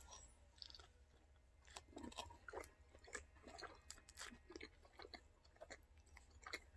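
Faint chewing of a mouthful of hamburger: small wet mouth clicks and soft crunches, coming more often from about two seconds in.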